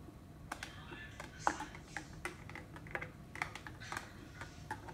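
Light, irregular clicks and taps, several a second, over a faint low hum.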